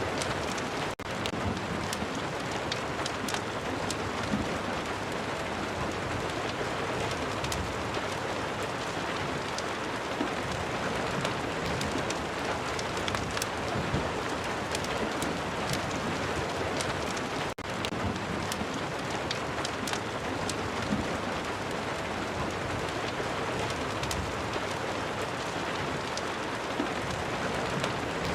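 Steady rain mixed with the scattered sharp crackles of a wood fire in a fireplace. The sound cuts out for an instant twice, about a second in and again about halfway through.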